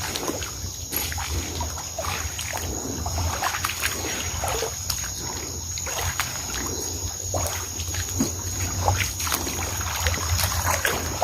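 Irregular splashing and sloshing of shallow stream water being disturbed, over a steady high chirring of night insects.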